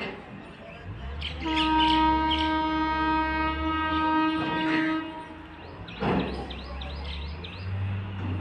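Goods train's locomotive horn sounding one long steady blast of about four seconds over the low rumble of the locomotive. Birds chirp faintly near the end.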